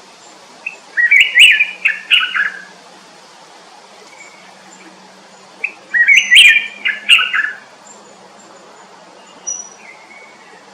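A songbird singing two quick warbled phrases, each about two seconds long and about five seconds apart, with a short softer call near the end.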